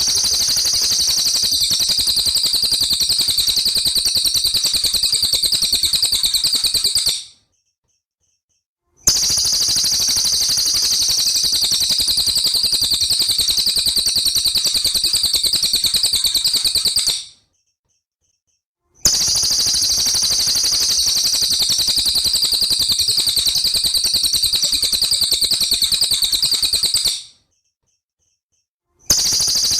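A songbird's very fast, high-pitched trill, held for about eight seconds at a time with two-second silent pauses between runs. The same run repeats like a loop, as in a masteran recording used to teach caged songbirds their song.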